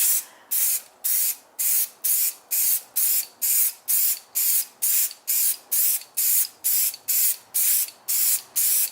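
White aerosol spray paint being sprayed in quick, regular short blasts, about two and a half hisses a second.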